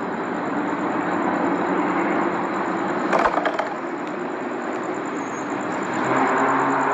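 Steady engine noise with a short cluster of sharp clicks about three seconds in.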